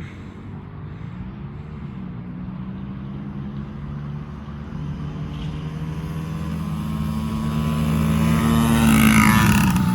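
Two small kids' dirt bikes, a two-stroke Yamaha PW50 and a four-stroke Honda CRF50F, racing toward the listener under full throttle, their engines growing steadily louder and loudest as they pass close near the end.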